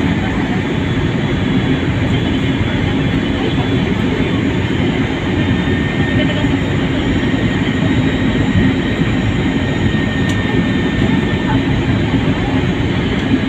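Steady, loud airliner cabin noise: engine and rushing airflow noise heard from inside the passenger cabin, with a faint steady whine running through it.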